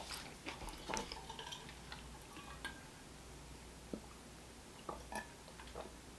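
Faint chewing: scattered quiet wet mouth clicks from a person eating close to the microphone, thinning out after the first second or so.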